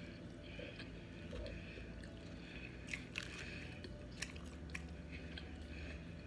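A person chewing a mouthful of baked macaroni close to the microphone, with a few soft wet mouth clicks and smacks.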